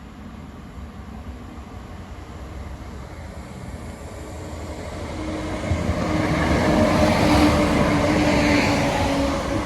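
Diesel multiple unit passenger train approaching and passing, slowing for the station. Its engine hum and wheel noise swell from about halfway through and are loudest near the end, with a steady engine tone underneath.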